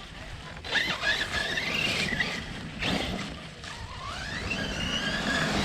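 Brushless electric motor of an RC basher truck whining, rising and falling in pitch as the throttle is worked, with a couple of sharp knocks in between.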